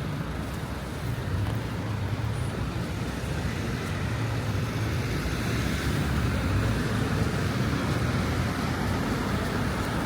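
Steady city road traffic: car and engine noise with a low hum and no distinct separate events.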